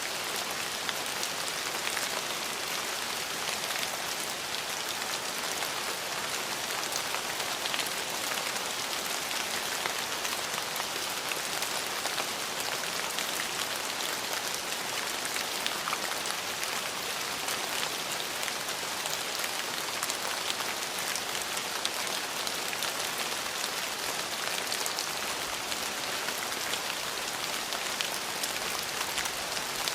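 Steady rain falling on hard surfaces: an even hiss of rainfall flecked with the ticks of individual drops.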